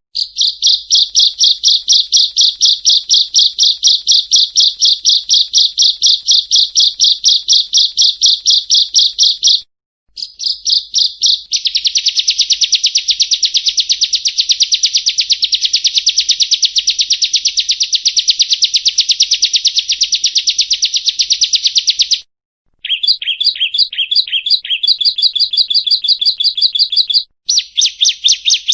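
Prinia (perenjak) song: long runs of rapid, evenly repeated high chirps. There are brief breaks about a third of the way through and twice near the end, with a short stretch of lower, falling notes between them.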